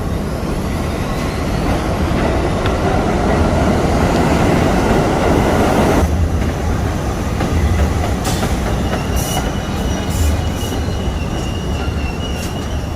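Train running on its track: a steady rumble that changes abruptly about six seconds in, then carries a thin, steady high squeal with scattered clicks.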